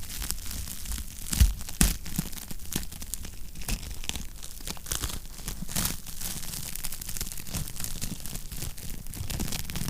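Wood fire in a fireplace crackling: a steady run of small snaps and pops, with two louder pops a little over a second in, over a low steady rumble.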